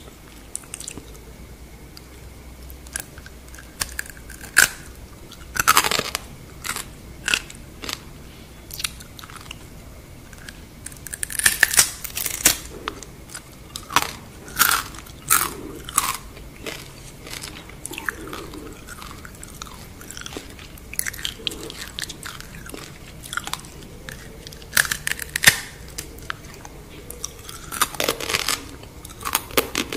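Close-miked crunching and chewing of deep-fried scorpions: irregular sharp crisp crunches as the shells are bitten, coming in clusters, with softer chewing between.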